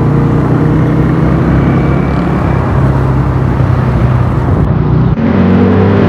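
Motorcycle engine running steadily under rushing road and wind noise in traffic. About five seconds in, the sound changes abruptly to a different, steadier engine note.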